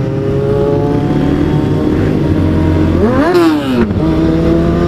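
Sport motorcycle engine running under way, its pitch climbing slowly. A little after three seconds it revs up sharply and drops back down.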